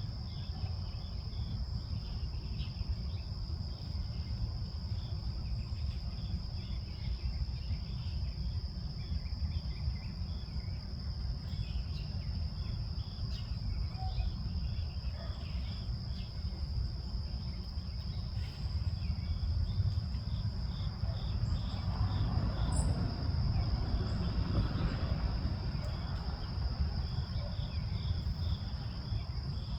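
Insects trilling in one steady high-pitched drone over a constant low rumble, with faint, scattered short bird chirps.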